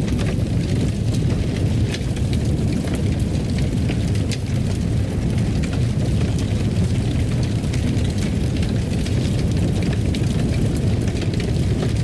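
Wood fire burning in a fireplace: a steady low roar with scattered crackles and pops throughout.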